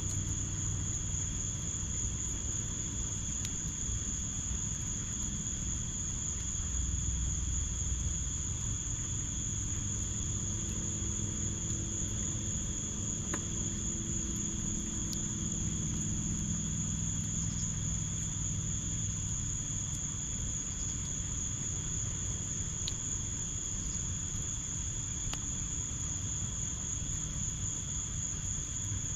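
Summer insects chirring in one steady, unbroken high trill, over a low rumble from the fire pit with a few faint, scattered pops of the burning wood.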